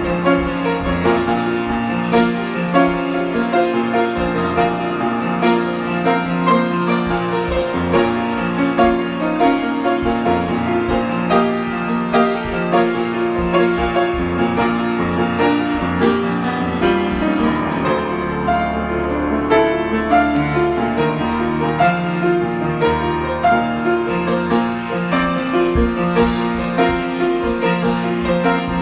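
Piano improvisation: a steady flow of notes over held chords, with a deep bass note sustained for several seconds past the middle.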